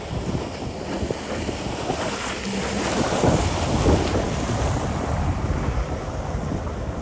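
A jet ski running over the sea, with wind buffeting the microphone and water rushing and splashing. It grows louder and splashier about three to four seconds in.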